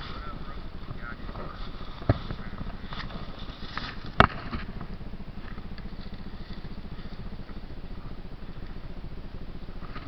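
Dirt bike engine idling steadily, with two sharp knocks about two and four seconds in.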